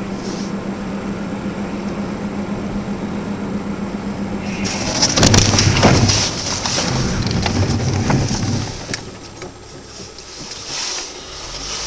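Dash-cam recording from inside a moving car: steady engine and road noise with a low hum. About five seconds in comes a sudden loud burst of impact noise with sharp knocks, a collision, followed by rumbling that fades over a few seconds.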